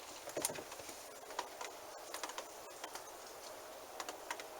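Faint background hiss with scattered light clicks and taps, and perhaps distant birds.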